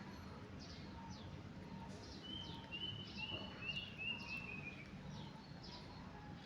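Small bird chirping: a steady run of short, quick, downward-sliding chirps, with a brief string of brighter, higher notes in the middle.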